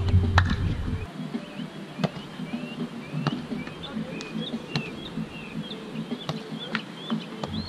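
Birds chirping over and over in short calls, with several sharp slaps of a volleyball being played during a rally.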